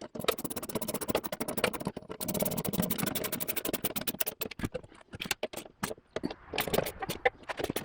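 Metal tools and parts being worked on a lawn tractor mower deck: a fast run of clicks in the middle, then scattered knocks and clatter.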